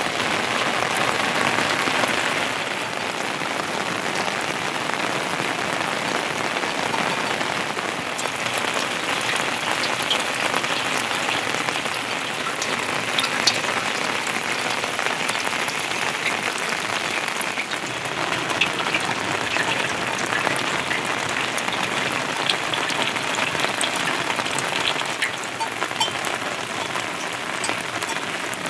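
Heavy rain falling steadily, a dense hiss with scattered sharper drop ticks as it hits surfaces close by.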